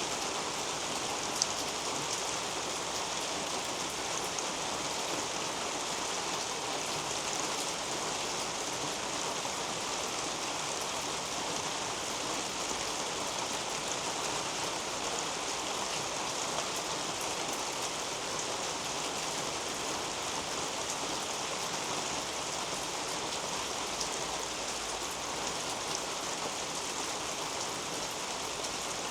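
Steady rain falling on garden leaves and a roof overhead: an even, dense hiss of many drops with fine individual drips through it, and one sharper drop tick about a second and a half in.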